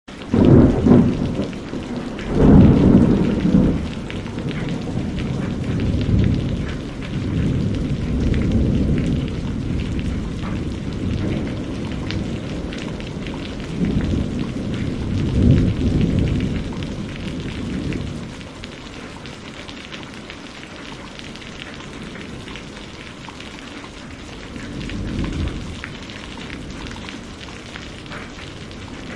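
Heavy rain hissing steadily on window glass while thunder rumbles in several long rolls, loudest about two to four seconds in and again around fifteen seconds, with a fainter roll near the end.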